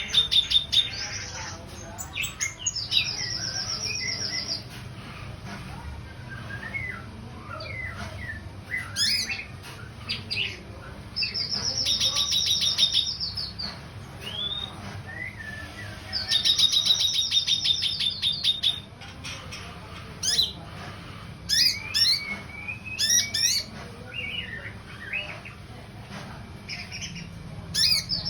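Kinoi songbird singing: fast, high trills of about two seconds each, repeated several times, with short chirps and whistles in between, over a low steady hum.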